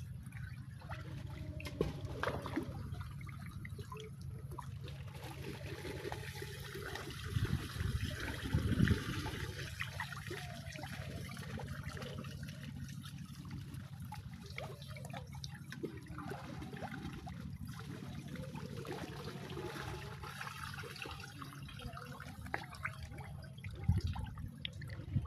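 Faint, steady trickling and lapping of pond water, with a couple of slightly louder splashes about 7 and 9 seconds in.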